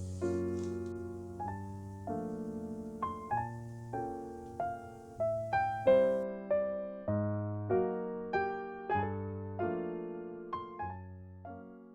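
Background music: a soft, slow piano melody, single notes struck one after another over low held bass notes, each note fading away, growing quieter near the end.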